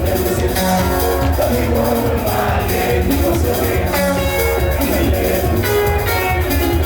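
Live band music: guitar lines over a steady drumbeat and heavy bass.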